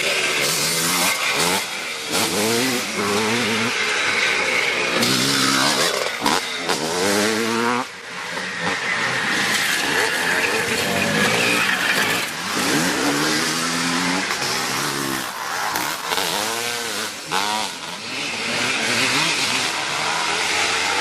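Several classic twinshock motocross motorcycles racing, their engines revving hard: the pitch climbs steeply again and again and falls back between gear changes as bikes pass, with more than one engine heard at once.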